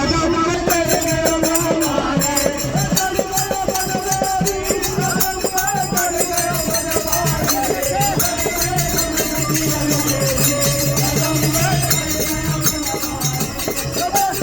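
Devotional folk music: a wavering sung melody over a steady rhythm of shaken jingling percussion like a tambourine or rattles.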